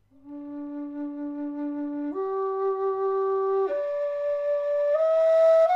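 Karavaev Nightingale aluminium low D whistle playing four long held notes that step upward: the bottom D, then F sharp, then the D an octave up, then E.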